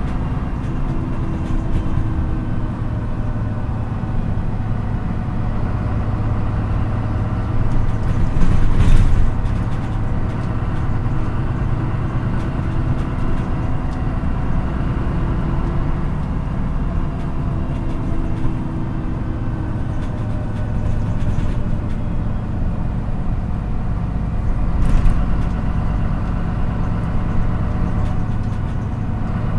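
MAN NÜ 313 bus's diesel engine running steadily, heard from inside the passenger cabin on the move. There is a brief louder noisy burst about nine seconds in and another about 25 seconds in.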